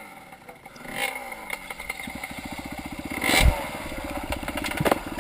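Dirt bike engine revving briefly, then chugging at low revs with a fast even beat, with a heavy thump about three and a half seconds in and a sharp click near the end. The bike has no working clutch and is stuck in gear.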